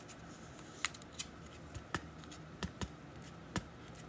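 Trading cards being handled and flicked through by hand: about six light, sharp clicks and taps spread over four seconds.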